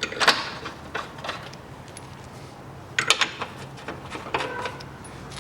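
Hand tools working bolts on a car engine mount: short clusters of metallic clicks and clinks, a second or so apart, over a steady low hum.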